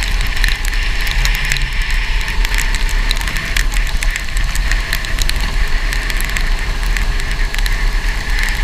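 Go-kart engine running steadily on a wet track, under a heavy low rumble, with a constant stream of crackles and ticks over it.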